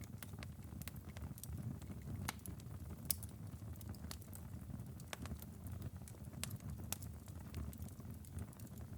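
Wood-burning fireplace ember bed, glowing coals after a long five-hour burn, crackling with sharp, irregular pops. A steady low rumble runs beneath, and one pop about three seconds in is louder than the rest.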